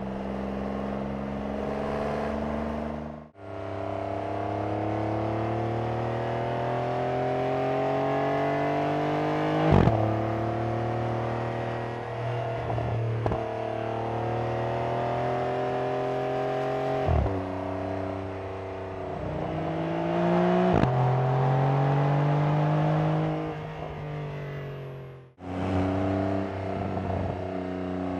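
2022 Porsche 911 Carrera GTS's six-cylinder boxer engine accelerating hard on track, its note climbing steadily and broken by three sharp upshifts, the last two close together. The engine note falls away near the end, and the sound drops out briefly twice.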